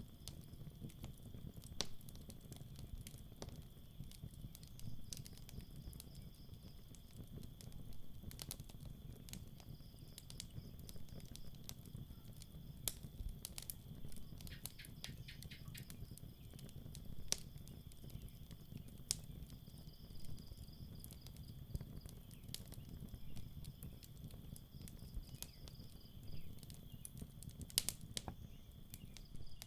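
Campfire crackling, with irregular sharp pops and snaps over a low steady rumble of the burning wood. A steady high thin buzz and on-and-off high trills of night insects run underneath.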